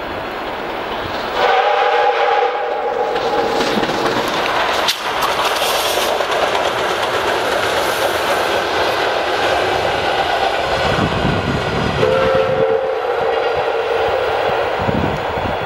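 Steam locomotive sounding its chime whistle twice, a chord of several tones, first for about two and a half seconds near the start and again briefly about twelve seconds in, over the steady noise of the train running.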